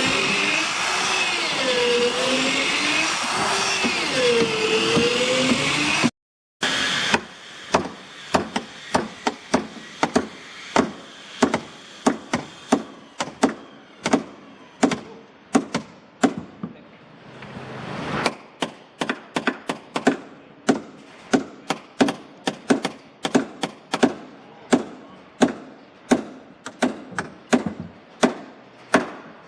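A power tool's motor runs with a wavering pitch, then stops abruptly about six seconds in. After that come steady, repeated blows on wood, about two a second, the hammering or chopping of wooden boat construction.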